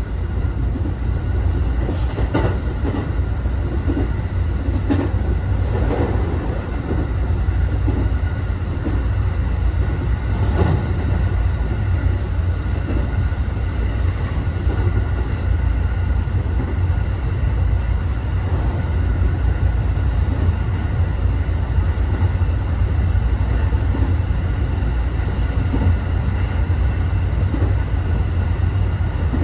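Cabin running noise of a JR West 207 series unpowered trailer car (Saha 207-2011) at speed: a steady deep rumble of steel wheels on rail. A few sharp clicks over rail joints come in the first ten seconds or so.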